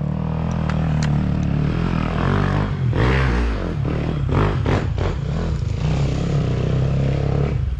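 Dirt bike engine running and revving up and down as it works over rough ground, with a few knocks and clattering from the bike.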